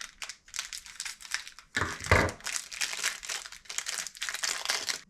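Packaging of a diamond polishing paste packet crinkling and rustling as it is torn open and handled, an irregular run of crackles with a louder burst about two seconds in.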